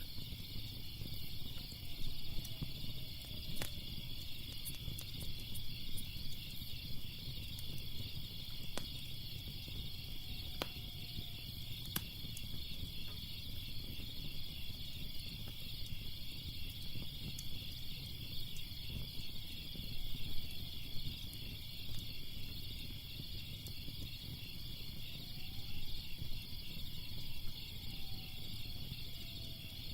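Crickets chirping steadily in a continuous pulsing chorus, with a wood fire crackling underneath: scattered sharp pops over a low rumble.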